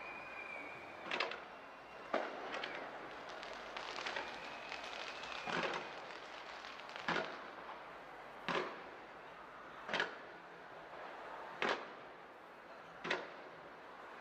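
Aerial fireworks going off in a regular series of sharp bangs, about one every second and a half, with crackling in between and a faint high whistle twice.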